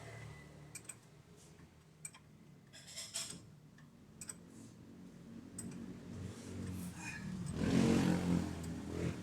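Scattered sharp metallic clicks and clinks, then a louder low rumble with a hum that swells about seven to nine seconds in.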